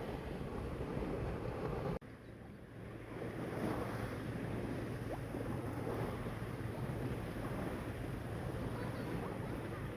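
Sea waves washing, with wind on the microphone. About two seconds in the sound cuts off abruptly and then builds back up.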